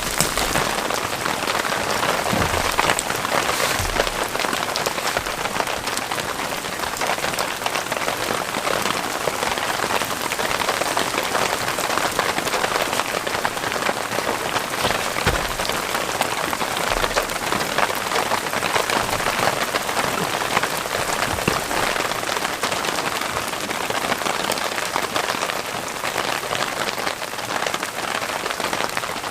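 Heavy rain falling steadily, a dense patter of many drops hitting a surface.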